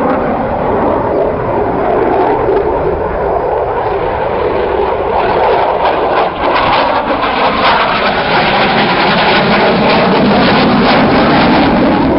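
Aircraft flying past, a loud rushing engine noise that grows stronger and rougher about halfway through.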